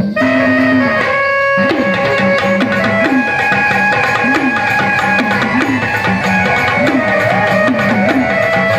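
Gondhal folk music: sambal drums played in a fast, continuous rhythm with swooping pitch bends on the drum, over an electronic organ holding steady chords.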